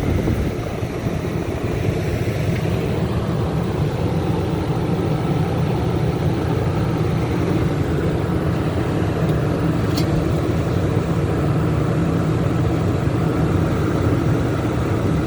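Portable 3200-starting-watt generator engine running steadily under load, powering a 15,000 BTU RV air conditioner that it can now start thanks to a newly fitted hard start capacitor. A faint click about ten seconds in.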